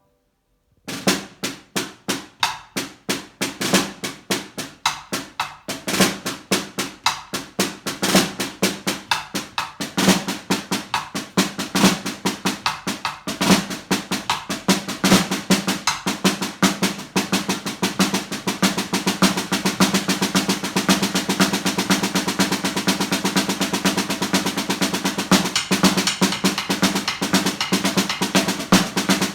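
Snare drum played solo: single strokes begin about a second in, widely spaced, and steadily speed up into a fast, even stream of strokes, like a train pulling away and gathering speed.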